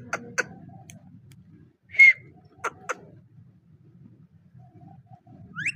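Pet parrot calling: a short chirp about two seconds in, two sharp clicks soon after, and a quick rising whistle near the end.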